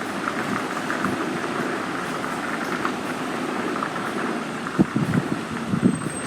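Steady road and engine noise inside the cab of an articulated lorry on the move, with a few short knocks near the end.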